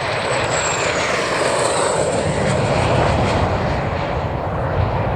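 MiG-15UTI jet trainer's centrifugal-flow turbojet flying past: a high whine that falls in pitch over the first two seconds as it passes, over a broad roar that builds to its loudest about three seconds in.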